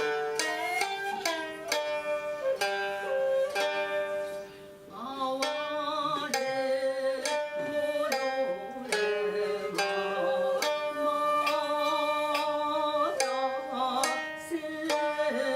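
Japanese traditional chamber music: plucked string notes ringing out in a steady run, with a sustained, wavering melody line held above them at times.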